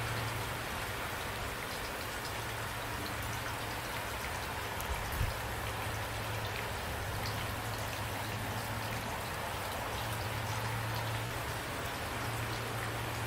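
Steady rain falling, an even hiss with individual drops ticking through it and a steady low rumble underneath. One louder drop or knock about five seconds in.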